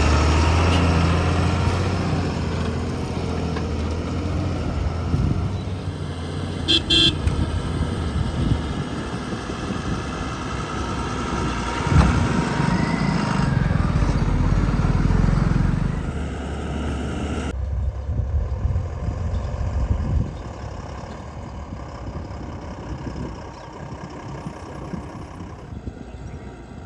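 Heavy diesel engines of a backhoe loader and a dump truck running and working under load. A short vehicle horn toot comes about 7 seconds in, and the engine sound fades in the last few seconds.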